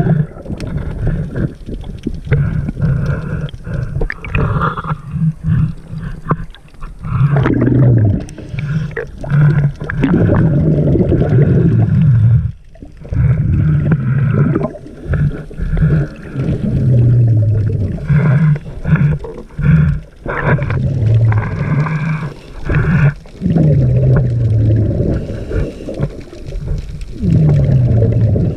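Underwater sound of a scuba diver's regulator: exhaled bubbles rumbling and gurgling in repeated bursts of a few seconds, with short pauses between breaths.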